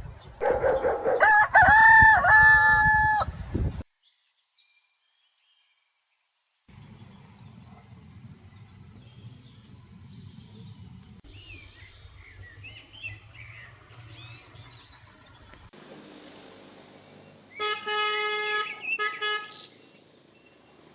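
Rooster crowing loudly for about the first four seconds, then a sudden break. Faint small bird chirps follow, and near the end there is another loud, steady, pitched call lasting about two seconds.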